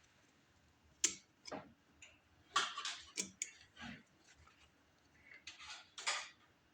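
Scattered sharp clicks and light clatter of small hand tools and metal hose clamps being handled, with a brief scraping rustle near the end.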